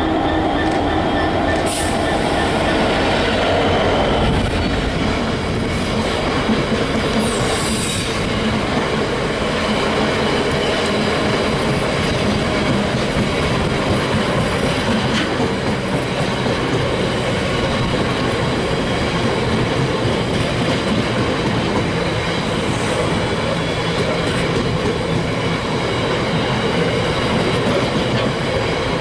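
A Class 66 diesel locomotive's engine drones for the first four seconds or so, then a long freight train of JNA open box wagons rumbles and clatters past, its wheels running steadily over the rails.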